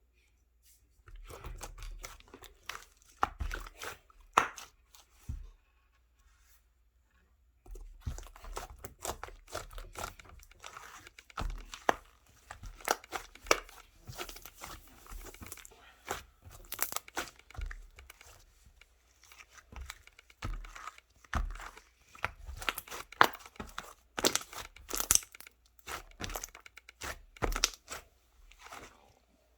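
Crinkling and tearing handling noises: a dense, irregular run of small crackles and sharp clicks, with a pause of about two seconds some six seconds in.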